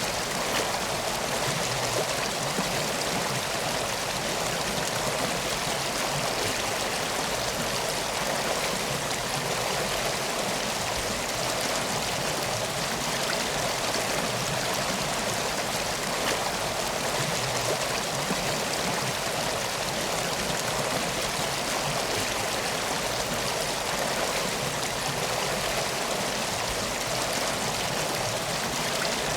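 Steady rushing and burbling of flowing stream water, even throughout with no breaks.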